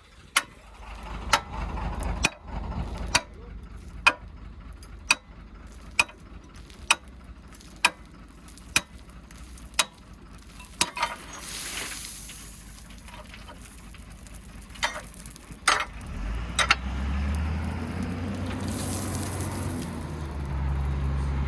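A run of sharp, evenly spaced clicks, about one a second, with a few more after a pause; about three-quarters of the way through, a heavy vehicle's engine running low comes in.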